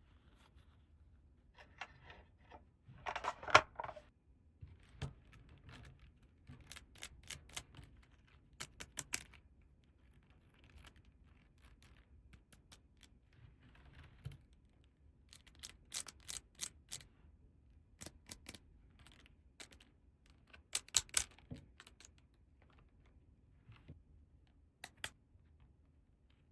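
Small hard plastic toy pieces clicking and tapping against each other as they are handled, in short clusters of clicks, with a brief louder rustle about three seconds in.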